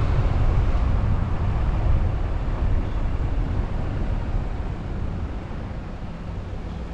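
Car driving on a road: steady rumble of road and wind noise that eases off over a few seconds, with a steady low engine hum coming through near the end.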